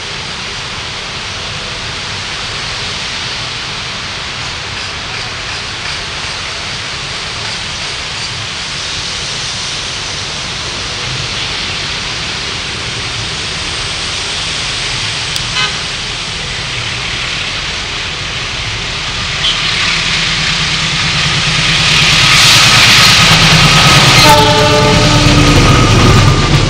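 Train approaching, its rumble and wheel noise growing steadily louder and peaking near the end, with a horn sounding about 24 seconds in as it comes close.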